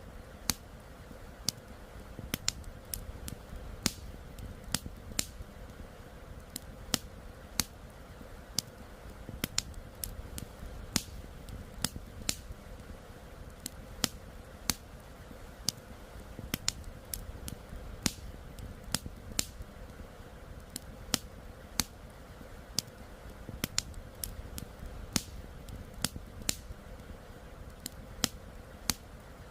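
Campfire crackling: burning wood gives off irregular sharp pops and snaps, about one to three a second, over a steady low rumble.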